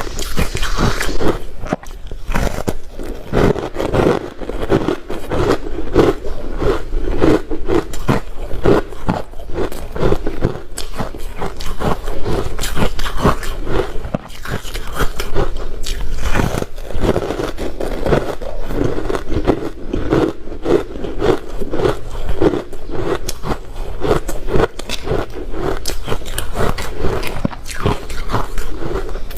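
A person biting and chewing crunchy ice close to the microphone: rapid, irregular crunching throughout.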